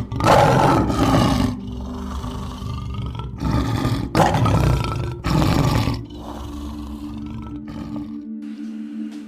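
A large wild animal roaring: four loud, rough calls in the first six seconds, the first the longest, then quieter. A steady low hum runs underneath.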